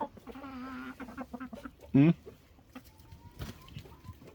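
Chickens clucking: a drawn-out, wavering call through the first second and a short, loud call about two seconds in, with fainter clucks after.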